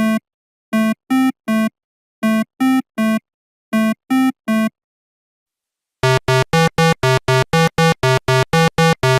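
Short electronic synthesizer notes: three groups of three quick notes, a pause, then a fast even run of about five notes a second.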